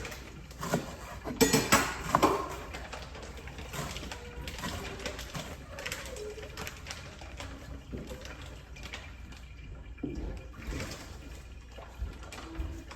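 Kitchen tap water running into a sink, with a cluster of sharp knocks from dishes about a second and a half in.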